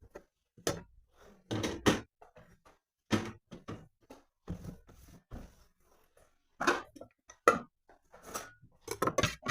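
A series of irregular knocks and clatters, about a dozen of them, with short silences between; the loudest come about two seconds in and about seven and a half seconds in.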